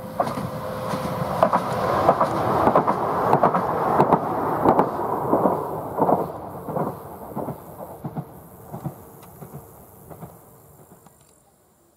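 Newag Impuls EN63A electric multiple unit passing: a loud rumble with quick irregular clacks from its wheels, loudest about four seconds in, then fading as it pulls away until the clacks die out near the end.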